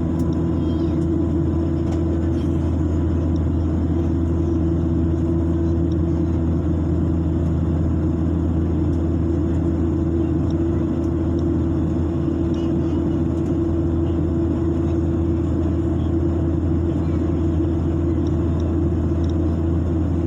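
Airliner cabin noise during the climb: the engines and airflow make a steady, unbroken low drone with a deep hum.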